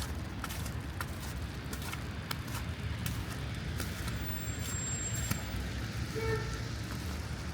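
City street ambience: a steady low rumble of road traffic with footsteps clicking on pavement about twice a second. A thin high tone sounds for about a second in the middle, and a short pitched beep comes near the end.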